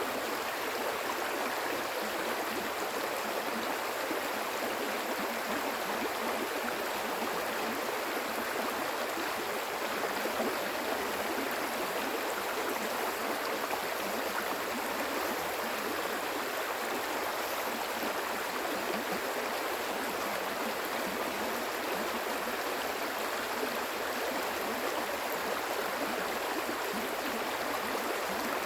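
Stream water flowing and gurgling over rocks, a steady, even rush.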